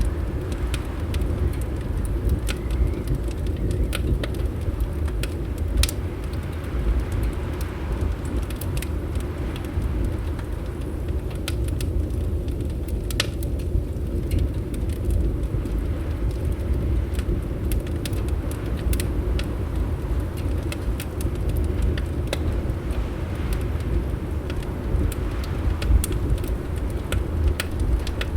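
Fireplace crackling: scattered sharp pops and snaps at irregular intervals over a steady low rumble of wind.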